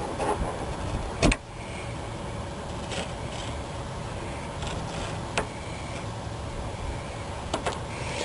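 A few sharp clicks and taps against a steady low rumble, the loudest about a second in, as a razor blade trims excess vinyl roof material at the roof edge.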